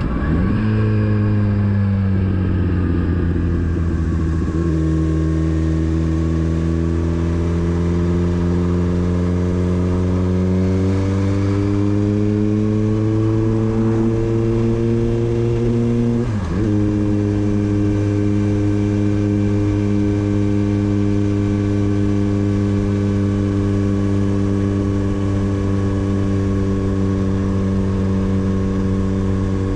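Motorcycle engine under way: a gear change just after the start, then the engine note climbing slowly as the bike accelerates, a quick upshift about sixteen seconds in that drops the pitch, and a steady cruise after.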